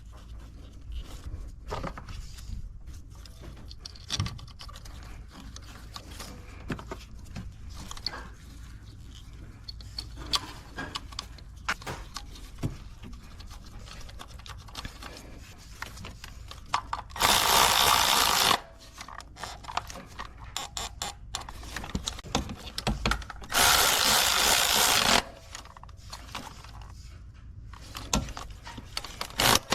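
A handheld power tool runs twice, about a second and a half each time, once just past the middle and again a few seconds later, plausibly driving in the ignition coil hold-down bolts. Between the runs come small clicks and knocks of parts and tools being handled.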